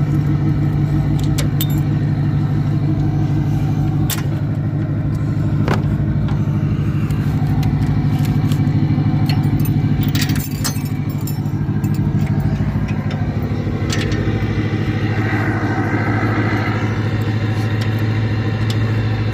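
Diesel truck engine idling steadily, its note dropping slightly about two-thirds of the way through, with a few sharp metal clanks and clicks from work around the truck and trailer.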